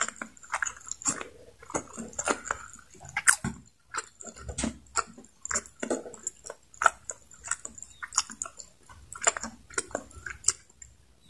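Close-miked chewing with the mouth closed, ASMR-style: irregular mouth clicks and lip smacks, about two or three a second, with a short pause a little over three seconds in.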